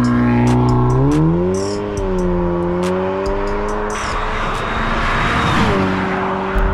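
Tuned Audi S3 8V's turbocharged four-cylinder with a Milltek exhaust accelerating hard away. Its engine note rises in pitch about a second in and holds high for several seconds.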